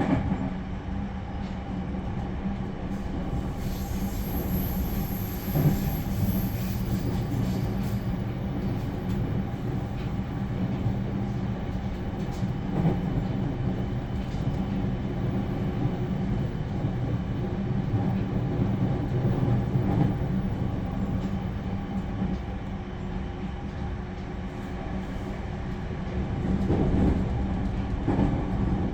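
Cabin running sound of a JR Central 315 series electric multiple unit under way: a steady, fairly quiet rumble of wheels on rail with little motor noise, broken by a few light knocks.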